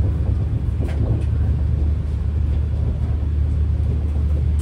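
Steady low rumble and hum inside a Shatabdi Express passenger coach, with a couple of faint clicks about a second in.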